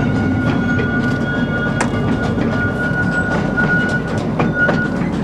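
Narrow-gauge train running, heard from an open carriage: a steady low rumble with irregular clacks from the wheels on the rails, and a thin, steady, high-pitched wheel squeal that cuts off near the end.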